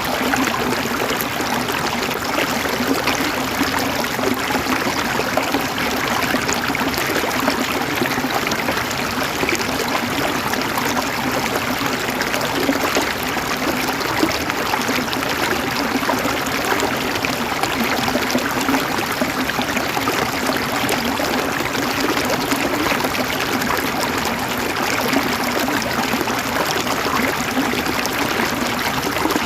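River water flowing and gurgling over stones in a steady, unbroken rush.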